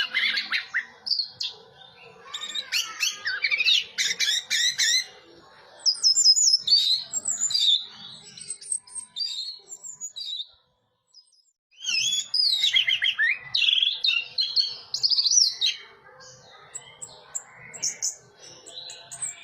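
Orange-headed thrush (anis merah) singing: fast, varied phrases of rising and falling whistles and chattering notes, broken by a pause of about a second just past the middle.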